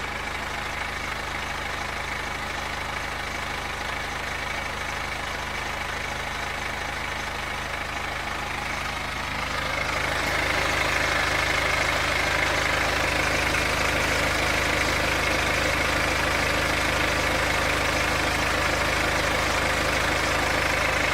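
BMW X3 F25 2.0-litre N47 diesel engine idling steadily with a strange noise that the owner suspects is the timing chain. The sound gets louder about halfway through.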